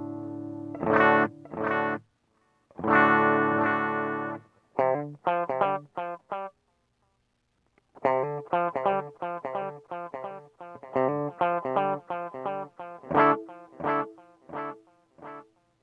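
Electric guitar played through a TC Electronic Flashback delay pedal. A held chord dies away, then come two strummed chords and another held chord. After that, short picked chords and notes follow, and their echoes repeat at even spacing and fade.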